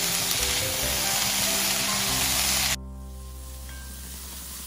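Corn kernels and onion-carrot masala sizzling in a hot oiled wok as they are stirred, over background music. The sizzling cuts off suddenly a little under three seconds in, leaving only the music.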